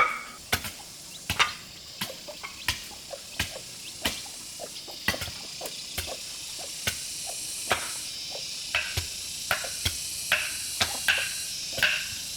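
Cooking in a pan: a metal utensil knocks sharply and irregularly against it, about once or twice a second, while a sizzling hiss builds after a few seconds.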